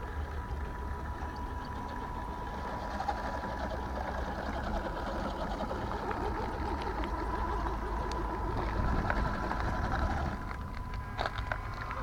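Small electric motor and gearbox of a radio-controlled scale crawler truck whining steadily as it drives, over a low rumble, with a few sharp clicks near the end.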